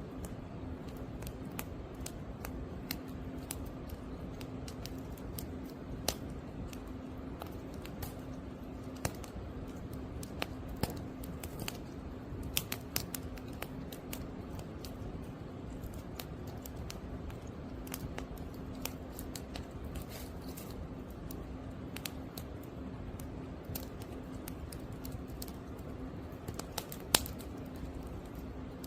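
Firewood burning in an open fire, crackling with irregular sharp snaps and pops, one louder pop near the end, over a steady low hum.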